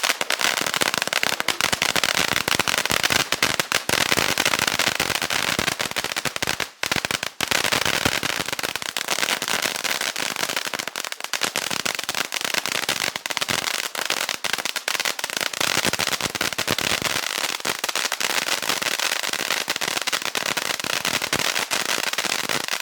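A six-tube fountain firework burning, a continuous dense crackling hiss, with two brief dips about seven seconds in.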